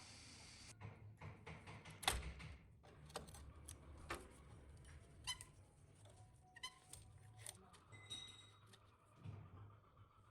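A scattering of faint clicks and light knocks from metal parts of an old ceiling fan being handled, with one sharper knock about two seconds in and a brief faint ringing near eight seconds.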